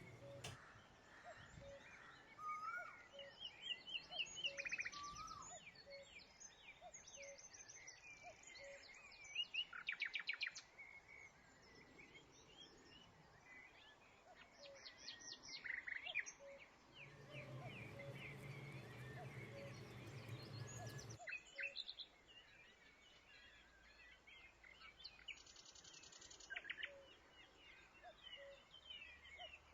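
Small songbirds chirping off and on, with quick rattling trills and short rising calls. A low steady hum comes in for a few seconds just past the middle and cuts off suddenly.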